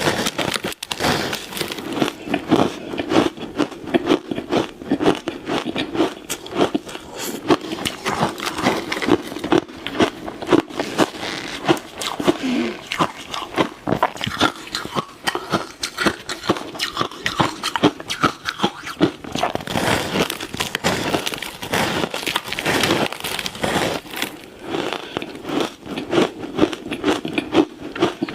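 Ice being bitten and chewed close to the microphone: a dense, continuous run of crackly crunches.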